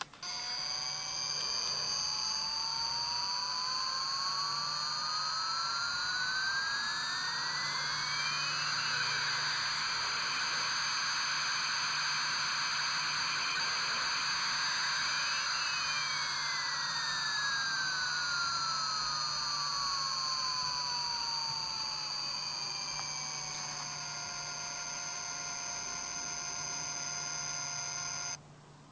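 Small speaker of an airline souvenir keychain playing a recorded jet-engine sound effect, with a thin, tinny tone. A whine rises steadily in pitch over about nine seconds, holds, then falls back over the next eight, and the sound starts and cuts off abruptly.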